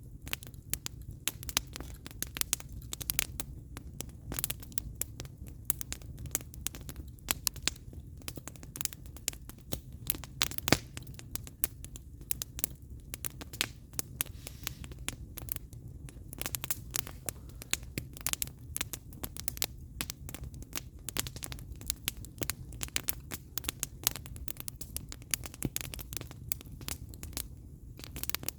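Wood fire burning, the logs crackling and popping with frequent irregular sharp snaps over a steady low rumble.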